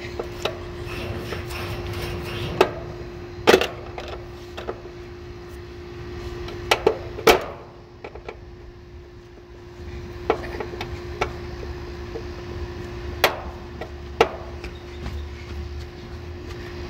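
Scattered sharp clicks and knocks of hand tools and metal parts being handled while an air conditioner's replacement capacitor is fitted and the unit reassembled, over a steady hum.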